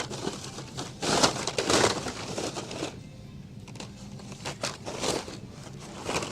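Blister-carded die-cast toy cars rustling and clacking against each other as they are sorted through by hand in a bin, in bursts.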